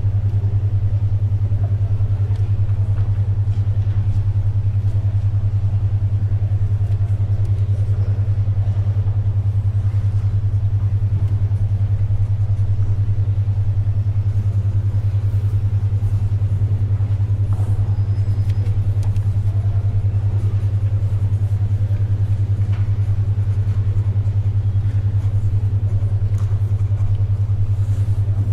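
A steady low hum around 100 Hz pulsing rapidly: a 10.2 Hz alpha-wave brainwave tone. Beneath it, faint library background noise with a few soft ticks of pages and pencil.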